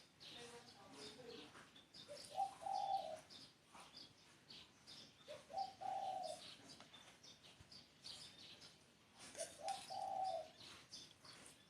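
Spotted dove cooing, three short phrases a few seconds apart, with small birds chirping throughout.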